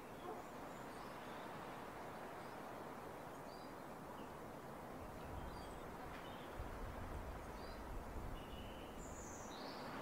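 Steady outdoor hiss with faint, short high chirps of small birds scattered through it, a few clearer ones near the end. A low rumble comes in about halfway and dies away before the end.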